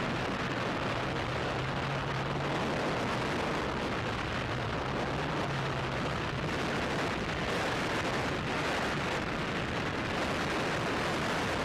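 Steady rushing wind noise of a parachute jump, with a low drone that fades out about halfway through.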